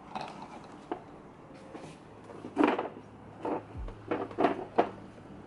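Knocks and clatters of objects being handled and set down, a few light ones at first, then a cluster of about five sharper knocks in the second half.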